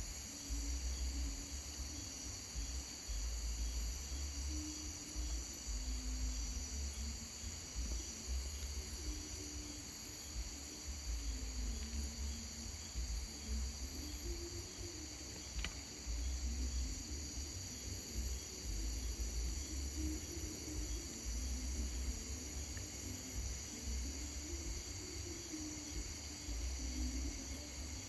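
Night insects, crickets or a similar chorus, shrilling steadily in several high bands, over a low gusty rumble on the microphone and a single sharp click about halfway through.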